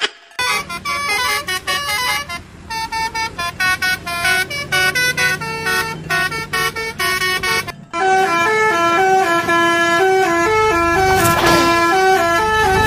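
Basuri-style telolet bus horn playing a tune of quick stepped notes. It breaks off briefly about two and a half seconds in and again near eight seconds, then plays on louder.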